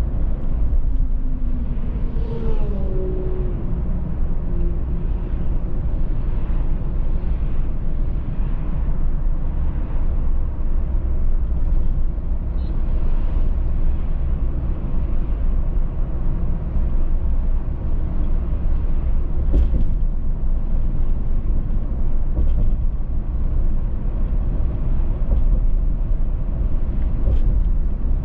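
Car driving at road speed: steady low road and tyre rumble with engine hum. About two seconds in, a pitched hum falls in pitch over a couple of seconds. There are a couple of brief knocks later on.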